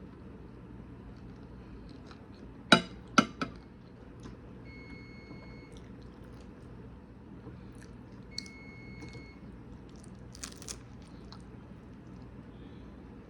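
Eating tacos close to the microphone: three sharp crunches about three seconds in, then quieter chewing and a couple of smaller crunches near the end, over a steady low hum. Two faint high beeps, each about a second long, sound around five and nine seconds in.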